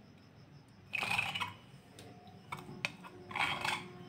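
Kitchen handling sounds: two short scrapes and a few light clicks of utensils against bowls.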